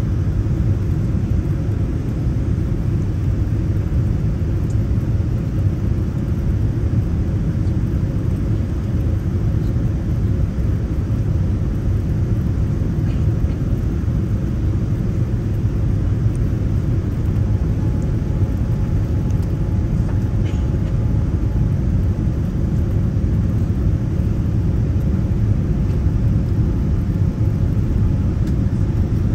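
Steady low rumble of an airliner in flight, heard inside the passenger cabin: engine and airflow noise. A faint steady hum joins it about halfway through.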